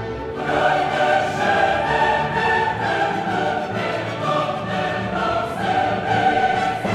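Background music: a choir singing long held notes with an orchestra.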